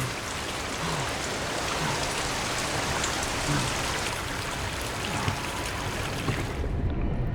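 Heavy rain from a hurricane storm, a dense steady hiss that drops away suddenly near the end, leaving a low rumble.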